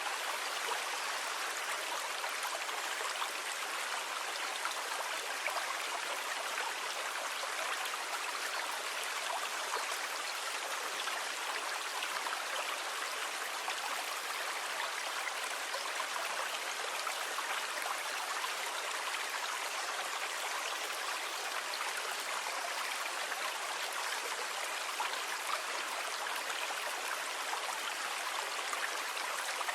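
Sea water rushing in a steady, even wash, with no separate wave breaks standing out.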